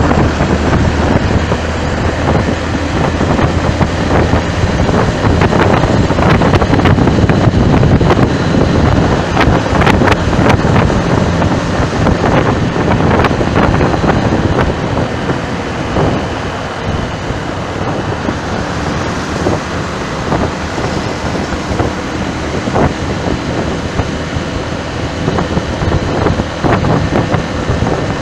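Wind buffeting the microphone over the noise of road traffic, loud and gusty, easing a little about halfway through.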